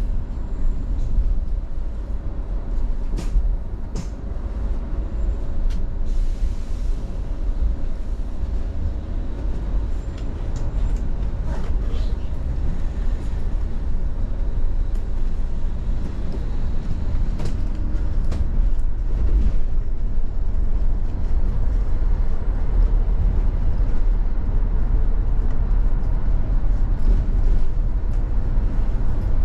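Steady low rumble of vehicle noise, with a few short clicks scattered through it.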